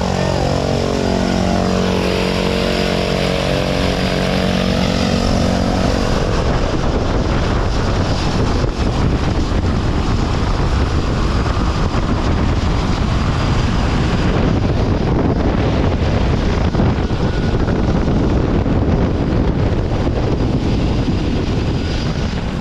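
Propeller aircraft engine drone with wind noise around an open door. After about six seconds the engine tones give way to a loud, steady rush of wind, typical of the exit into freefall.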